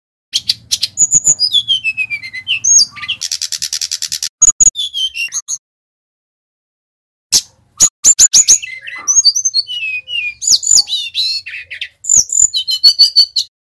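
Sikatan rimba dada coklat (SRDC Bali, a jungle flycatcher) singing energetically in rapid phrases. The phrases mix high chirps and descending whistled slurs with a dry buzzy trill a few seconds in. The song breaks off for a couple of seconds midway, then resumes.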